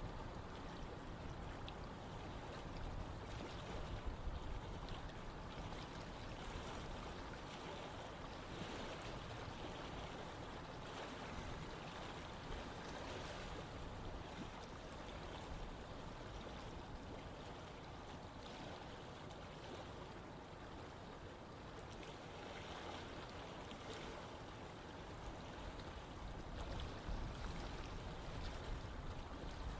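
Running river water, flowing steadily.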